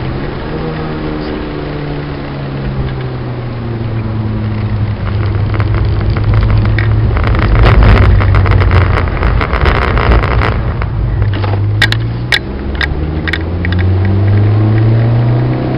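Citroën Saxo VTS's four-cylinder engine heard from inside the cabin, the revs falling away at first and then pulling up again later on. A few seconds in, a loud rush of water-spray noise from the wet track builds, followed by a few sharp knocks.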